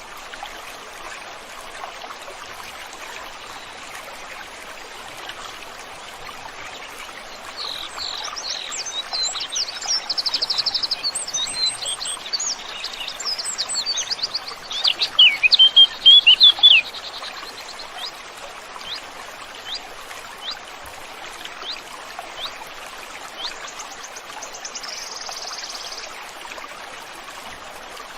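Steady rushing of a flowing stream, with songbirds singing over it: a burst of quick chirps and trills peaking loudest about two-thirds of the way through, then a few scattered single chirps and a brief trill near the end.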